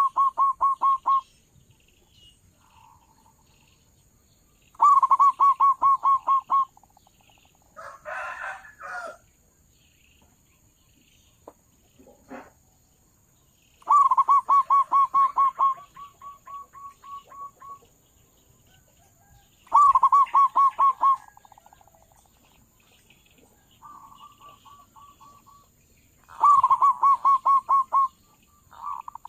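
Zebra dove cooing: bursts of rapid, evenly pulsed coo notes, each lasting one to two seconds, repeated about five times with pauses between. A short, rougher noise breaks in about a third of the way through.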